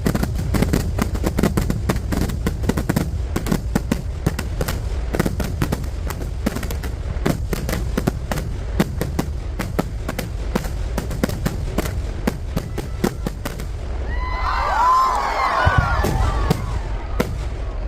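Festival fireworks display: a dense, rapid string of cracker blasts, many a second over a deep rumble, thinning out after about fourteen seconds as a crowd begins to cheer and shout.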